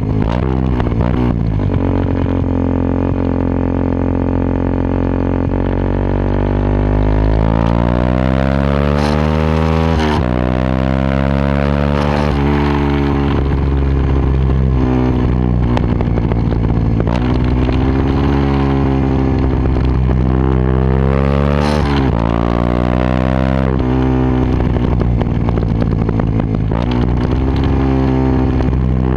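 Yamaha WR125X's 125 cc single-cylinder four-stroke engine through a Takkoni aftermarket exhaust, running steadily for the first few seconds, then revving up and back down again and again. The pitch climbs in long sweeps and drops sharply twice.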